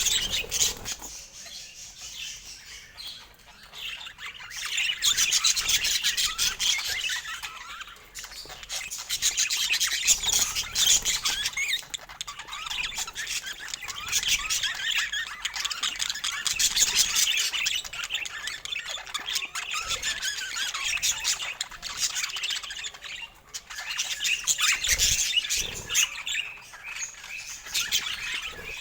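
Budgerigars chattering and squawking, in busy bouts of rapid high warbling calls with short lulls between.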